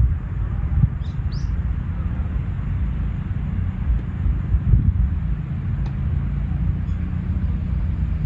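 Steady low outdoor rumble, with two short high bird chirps about a second in.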